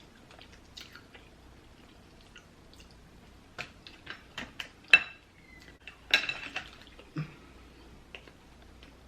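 Scattered sharp clicks and cracks of a lobster's shell being worked open by hand, a stubborn shell, with a few knocks against the dishes; the loudest crack comes about five seconds in and a cluster follows a second later.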